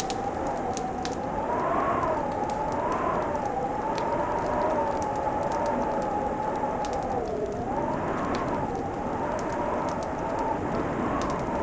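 Fireplace crackling, with sparse light ticks over a steady hiss, beneath a wavering whistling howl that slowly rises and falls in pitch the whole time.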